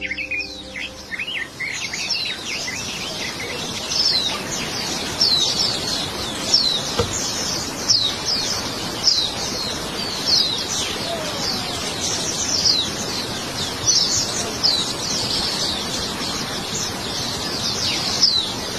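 A white-eye singing: a rapid, continuous run of high, thin chirps, each a quick downward-sweeping note, over a steady background hiss.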